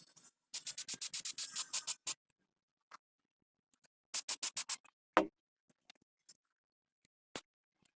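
Two quick runs of sharp clicks, about seven a second, then a couple of single knocks, like a hand tool at work.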